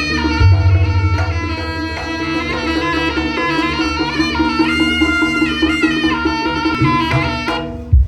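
Jaranan gamelan music: a shrill reed melody, typical of the slompret, over kendang drumming and a steady low pulse. The music stops shortly before the end, and a single low thump follows.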